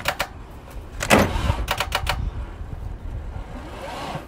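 Chevy S10 engine being run to destruction and seizing up. A few sharp knocks, then a louder sputtering burst about a second in that dies away.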